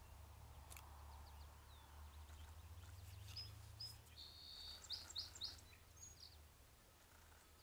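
Faint birdsong: a few short, high whistled notes and quick chirps in the middle stretch, over a steady low hum.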